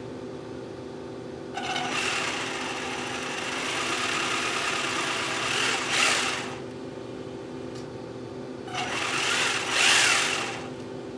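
Traxxas XO-1 RC car's brushless motor and drivetrain spun up with the car held off the ground: two throttle bursts of whining, each swelling to a peak before cutting off, the first about four seconds long and the second about two.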